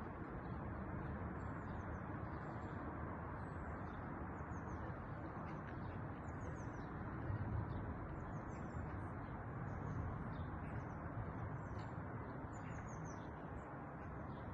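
Small birds chirping: many short, high, quick downward-sliding calls scattered throughout, over a steady low rushing background noise.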